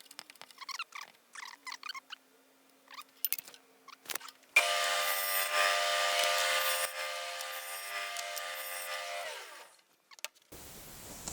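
Light handling clicks and knocks, then about four and a half seconds in an electric power tool starts. It runs steadily with a whine of several steady tones for about five seconds, then switches off, its pitch falling as the motor winds down.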